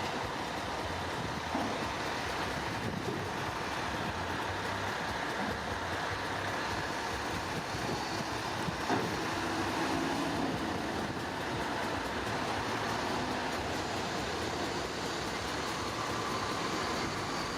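Heavy diesel earthmoving machinery working, a steady dense engine and mechanical rumble with a brief knock about nine seconds in.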